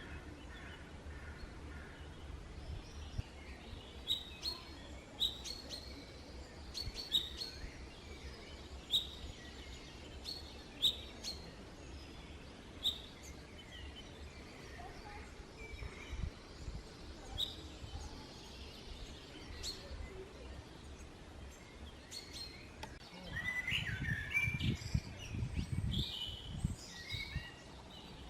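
Woodland birdsong: one bird repeats a short high chirp every second or two, then a busier, more varied song comes in near the end, over low rumbling thuds.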